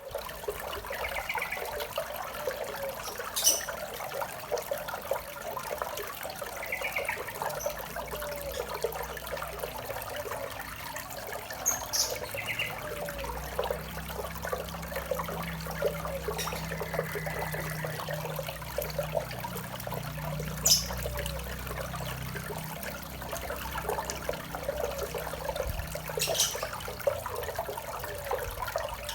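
Small waterfall trickling and splashing steadily into a koi pond, with a few sharper splashes now and then. Short faint chirps come through a few times, and a low hum rises in the middle.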